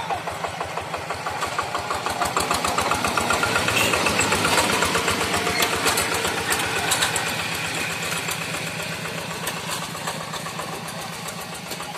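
Engine of a walk-behind paddy-field tractor running with a rapid, even chugging. It grows louder for the first few seconds, then slowly fades as it moves away.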